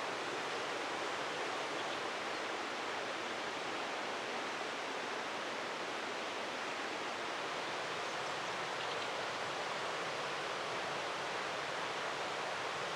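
Steady, even water noise, a hiss with no breaks or single events.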